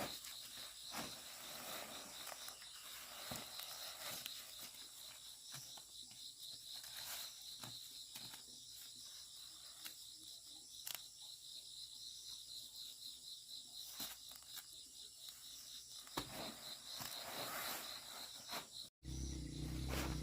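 Insects chirring steadily in a fast pulsing trill, with scattered light clicks and rustles. Near the end the sound cuts out for a moment and a low steady hum takes over.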